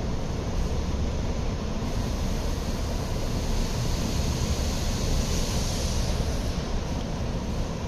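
Amtrak passenger train moving slowly along the station track, heard from a distance as a steady low rumble. A hiss swells about two seconds in, peaks a few seconds later and fades before the end.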